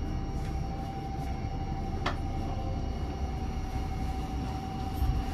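Inside a Fujisan View Express electric train car: a steady low rumble and hum with a constant mid-pitched whine over it, and a single sharp click about two seconds in.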